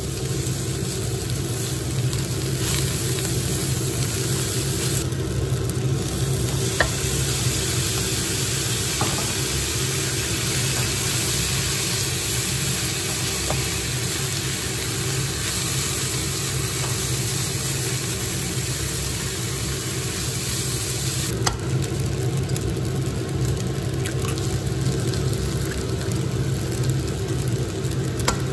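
Fried rice with cabbage and carrot sizzling in a nonstick pan while a spatula stirs and scrapes it, with a few sharp taps of the spatula on the pan. A steady low hum runs underneath.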